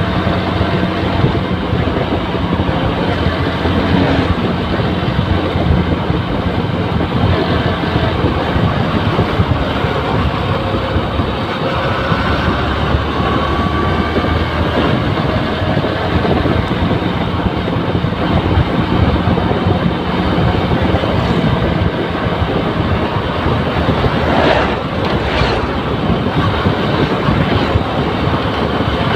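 A Honda New Megapro motorcycle's single-cylinder engine running steadily under way, mixed with continuous wind and road noise.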